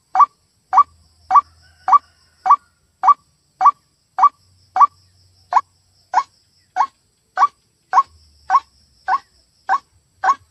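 White-breasted waterhen calling, one short note repeated steadily about every 0.6 seconds, some eighteen calls in all. It is a recorded waterhen call of the kind played to lure the birds.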